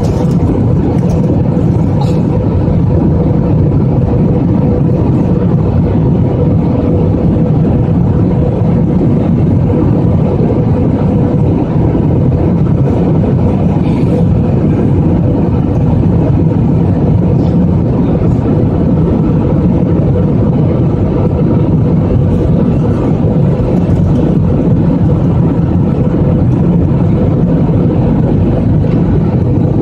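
Airliner cabin noise during the descent: a steady, loud rumble of jet engines and rushing air, with a steady hum running through it.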